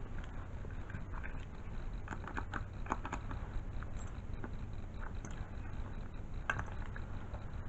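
Scattered light clicks and taps, clustered in the middle of the stretch and once more near the end, over a steady low hum.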